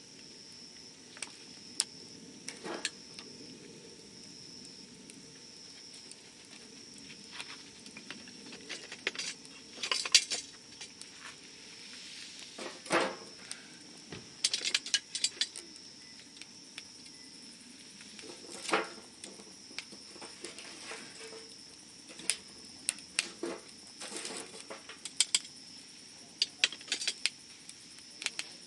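Wood campfire crackling, with irregular pops and snaps; the loudest snaps come about ten and thirteen seconds in.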